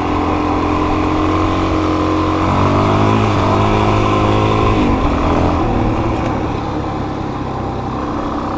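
Kawasaki KLX400 dirt bike's single-cylinder four-stroke engine running while riding; its note shifts and rises and falls from a few seconds in, then settles back to a steady pitch.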